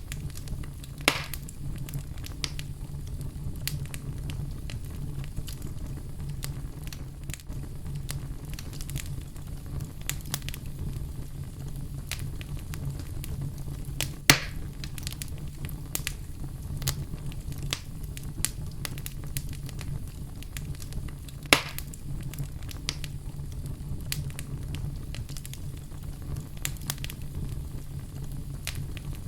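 Wood fire crackling in a fireplace: a steady scatter of small snaps and ticks, with three louder pops about 1, 14 and 21 seconds in, over a low steady rumble.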